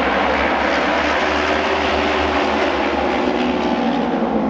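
Several auto race motorcycle engines running hard together, a loud steady mechanical drone with a little rise and fall in pitch.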